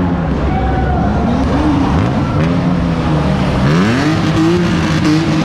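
A car engine revving hard through a loud exhaust, its pitch climbing and dropping several times and then climbing and holding at high revs for the last second and a half.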